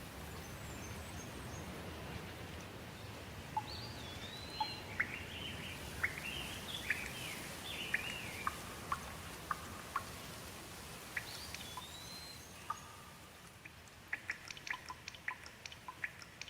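Steady rain with a bird calling over it in a run of short, quick chirps and whistles; near the end, a rapid patter of sharp water drips.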